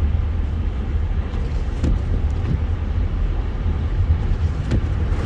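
Steady low rumble of a car driving on a snowy highway, heard from inside the cabin, with a few faint ticks.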